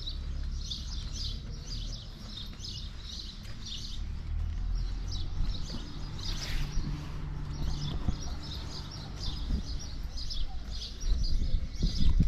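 Small birds chirping over and over, many short high calls, above a steady low rumble, with a few louder low knocks near the end.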